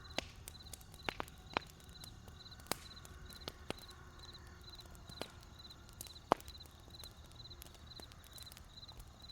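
Wood campfire crackling, with sharp irregular pops (the loudest about six seconds in), over a cricket chirping steadily, about two short high chirps a second.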